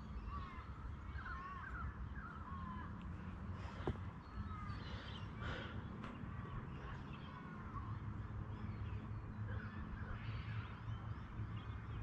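Birds calling from the surrounding bush: a scatter of short chirps and calls over a low steady rumble, with a single sharp click about four seconds in.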